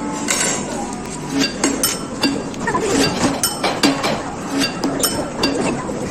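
Light clinking strikes, about three a second.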